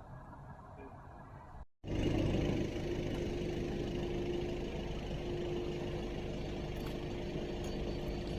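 Car engine idling steadily with a low rumble and a held hum. It comes in abruptly about two seconds in, after faint background sound.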